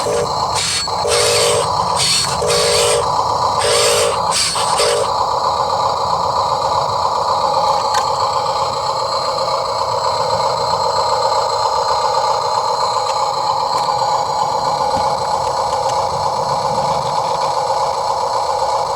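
Huina 1582 RC dump truck's small electric motors and gearbox whining. For the first five seconds they start and stop in short spurts; after that they run steadily.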